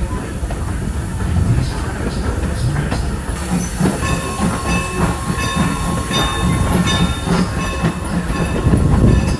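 A Strasburg Rail Road train rolling along the track with a steady low rumble and wheel clatter. From a few seconds in, a hiss and intermittent high-pitched squealing join in.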